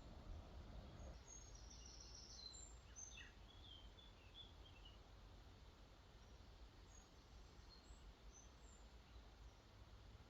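Faint birdsong: a cluster of short high chirps in the first half, then a few fainter ones later, over a quiet steady hiss of flowing water.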